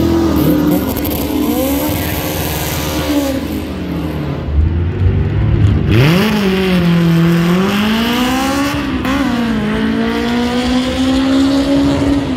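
A car engine revving up and down several times. Its pitch falls low, climbs sharply about six seconds in, then holds fairly steady.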